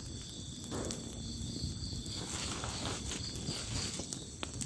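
Night forest: a high call repeated in quick pulses, which the camper calls a bird going 'wik wik wik', over a steady insect chorus, with a few sharp clicks.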